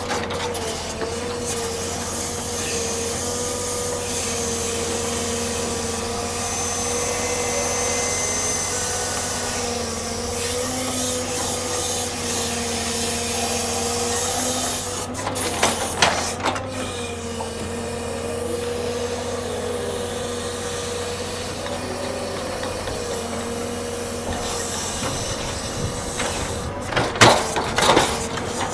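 Heavy log-unloading machinery running steadily with a constant whine, with bursts of clattering knocks about halfway through and again near the end.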